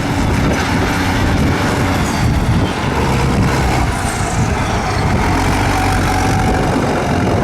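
Tractor engine running loudly and steadily, racing in a sprint.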